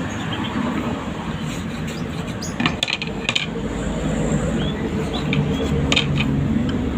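A few light, sharp clinks and taps, like small hard objects knocking together, over a steady background noise with some short high chirps.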